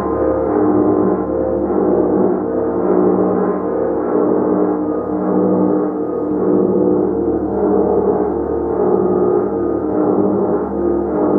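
A large gong played continuously, struck over and over so that its shimmering wash of many overlapping tones keeps swelling and ebbing without dying away.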